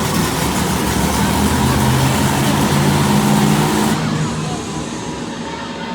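Monster truck engine running loud at high revs, its pitch creeping up a little. About four seconds in, the sound falls away sharply and drops to a lower, quieter note.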